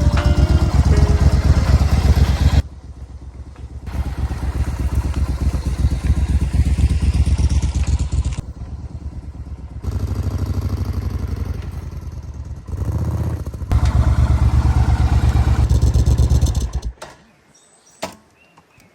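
Suzuki Intruder 1400's V-twin engine running with a rapid low pulsing beat, its loudness jumping up and down abruptly several times. It stops about 17 seconds in, leaving a few faint clicks.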